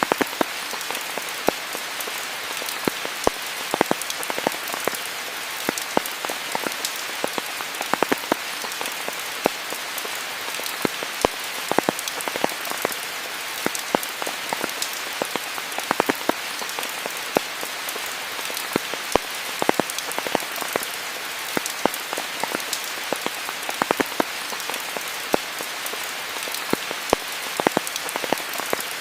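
Steady rain: an even hiss with many sharp, separate drops striking close by.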